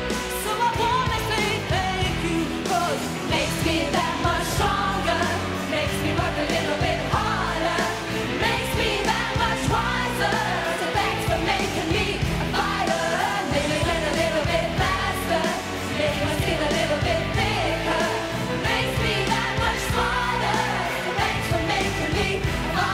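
Live pop performance: a singer's voice over a loud band backing with a steady drum beat.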